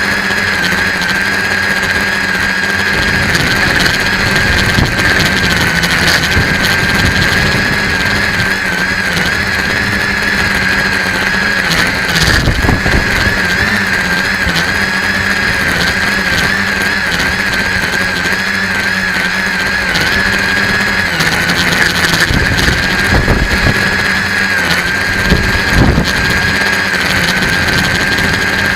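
Electric motors and propellers of an RC tricopter whining steadily in flight, the pitch wavering slightly as the throttle shifts. Gusts of wind buffet the microphone with a low rumble that swells at times.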